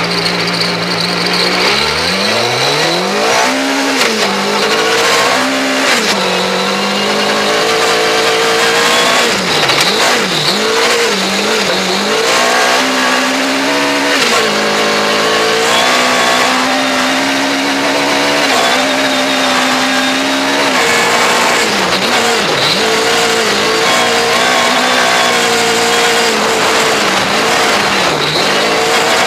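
Mugen-tuned two-litre four-cylinder engine of a Honda Civic Type R R3 rally car pulling away about two seconds in, then revving hard up and down through gear changes and lifts, heard from a front-bumper camera over steady road and wind noise.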